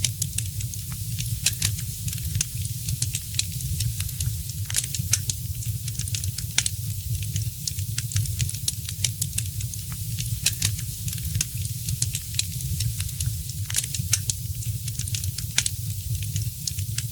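Wood fire crackling in a fireplace: frequent sharp pops and snaps at irregular intervals over a steady hiss and a low, even rumble of the burning fire.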